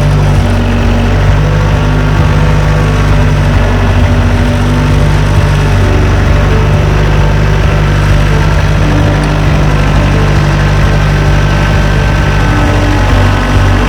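Norwood HD38 portable band sawmill's engine running steadily.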